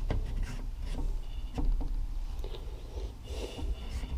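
Light clicks and knocks of metal engine parts being handled and test-fitted on a workbench, over a low background hum.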